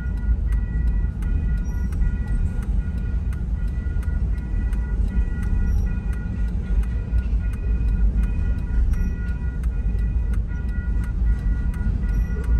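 Double-stack container freight train rolling through a grade crossing, a steady low rumble heard from inside a car. Over it the crossing bell rings in even, repeated strikes, about two to three a second.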